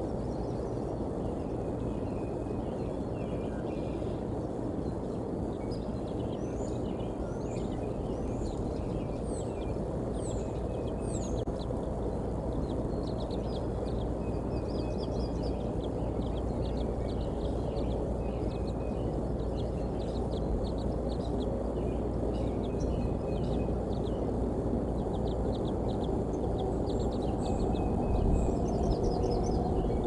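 Several birds chirping, trilling and giving short rising whistled notes, over a steady low rumble of outdoor background noise.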